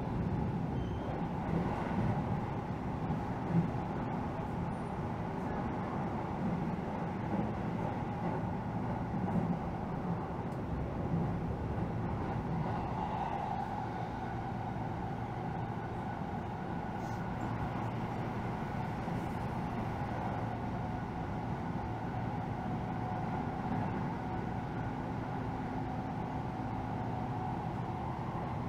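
Keihan Rakuraku limited express train running at speed, heard from inside the passenger car: a steady running rumble with a faint steady hum above it.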